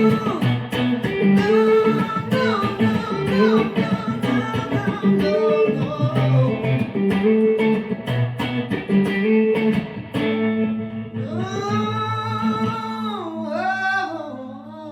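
Live band music: a guitar solo of quick picked notes with string bends over a steady low bass line. About ten seconds in it settles into a long held, wavering note that bends down and fades out.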